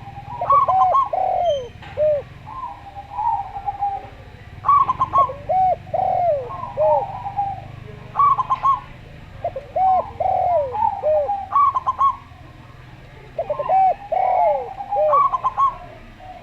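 Zebra dove and spotted dove cooing together, repeated phrases of short rising-and-falling coo notes coming every few seconds and overlapping one another.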